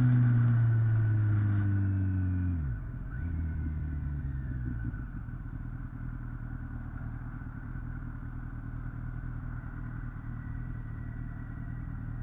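2008 Kawasaki ZX-10R's 998 cc inline-four engine coming off the throttle, its pitch falling steadily for the first few seconds and then dropping away sharply, after which it runs on with a lower, quieter, steady note.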